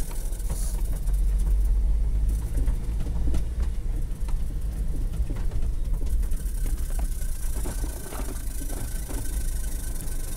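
Honda car engine idling steadily at about 800–850 rpm, a continuous low rumble with faint scattered clicks over it.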